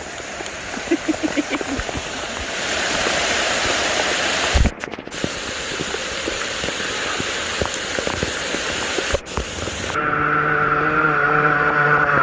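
Steady hiss of heavy rain. About ten seconds in, a trail motorcycle's engine comes in running at a steady idle over the rain.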